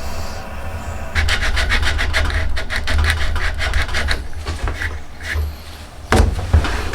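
A hand rasp filing a yew bow stave in quick, even strokes of about five a second, starting about a second in and tailing off. Near the end come two louder knocks.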